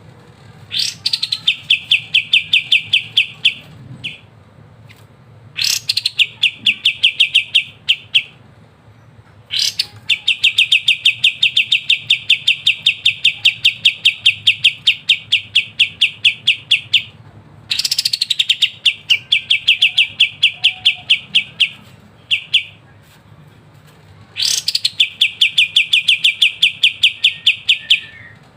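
Kapas tembak bulbul singing in the rapid 'ngebren' style: long runs of crisp repeated notes, about eight a second, each run opening with a sharp downward-sweeping note. It comes in five bouts with short pauses between them, the longest lasting about seven seconds.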